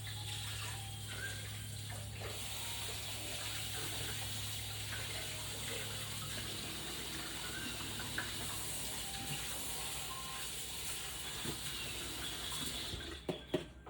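Kitchen tap running steadily into the sink as canned garbanzo beans are rinsed under it; the water is shut off about a second before the end.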